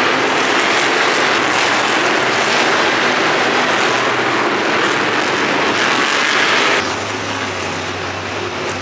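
Monster truck engines running loud in the arena. Close to seven seconds in the noise drops to a lower, steady rumble.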